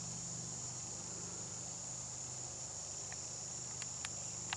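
Steady high-pitched insect chorus, crickets trilling without a break, with a few faint clicks in the last second or so.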